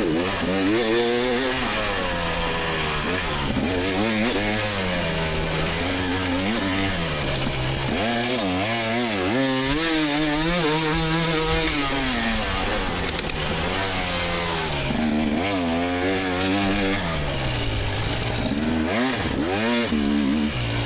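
2024 GasGas EX300 two-stroke single-cylinder dirt bike engine, its pitch rising and falling constantly as the throttle is opened and closed through the course.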